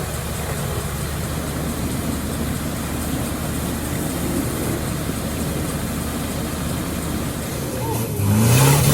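Off-road vehicle engine running steadily at low revs. Near the end it revs up and down hard, with a surge of noise.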